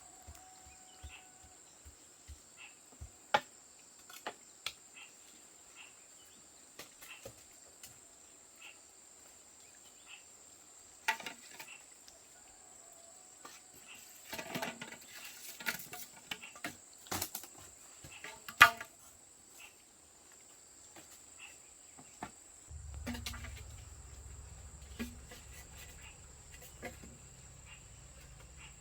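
Scattered sharp knocks and clicks, as of hard objects being handled, over a steady high insect drone. The knocks come thickest and loudest in the middle, and a low rumble joins near the end.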